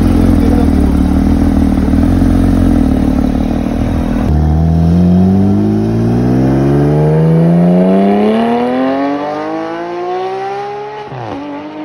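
Deep, steady engine rumble for about four seconds. Then a Porsche 911's flat-six accelerates hard away, its note climbing steadily in pitch for about seven seconds, dropping sharply near the end, then climbing again.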